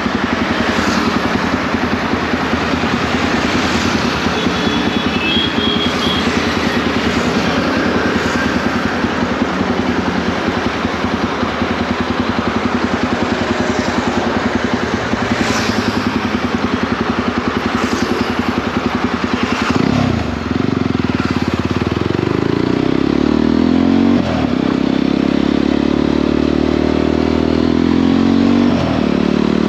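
Jawa 42 motorcycle's single-cylinder engine running at riding speed under a steady rushing noise. About two-thirds of the way through the engine note dips briefly, then climbs in pitch twice as the bike accelerates through the gears.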